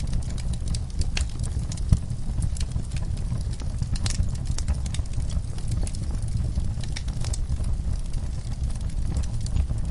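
A fireplace crackles with scattered sharp pops over a steady low rumble, mixed with the sounds of horses resting in a stall. There is a sharper knock about two seconds in.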